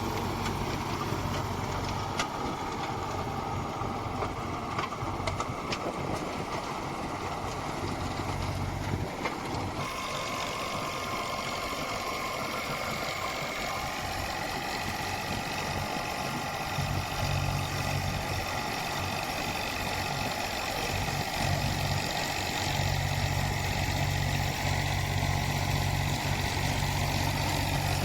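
Eicher tractor's diesel engine running steadily, its low drone growing stronger in the last few seconds, with a few faint clicks early on.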